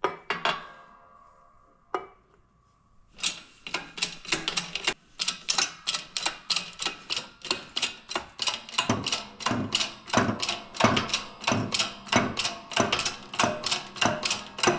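Rapid, evenly spaced ratcheting clicks, about four a second, from a ratchet-type hand tool being worked during engine assembly, after two sharp metal knocks at the start.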